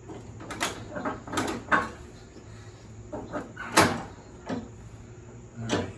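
Metal hitch pins and hand tools being handled on a riding mower's deck: irregular metallic clicks and clinks, with one sharper knock a little before the middle.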